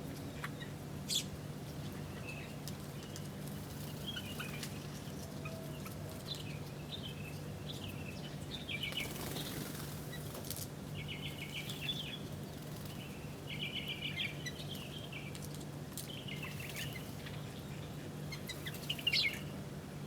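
Small birds chirping in short, rapid bursts of repeated notes while feeding, with a few sharp clicks and a steady low hum underneath.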